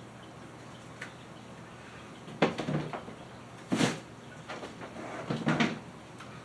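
Kitchen handling noises while food is being prepared: three short bouts of knocking and clatter, about two and a half, four and five and a half seconds in.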